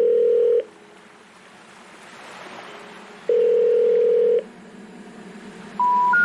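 Telephone ringback tone, two rings with hiss on the line between them, then three short rising tones near the end: the special information tone that signals a call could not be completed.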